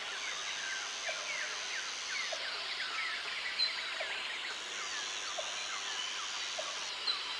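Many small birds chirping with quick downward notes over a steady natural hiss. A thin high whine runs for stretches and breaks off, and faint low chirps repeat about once a second.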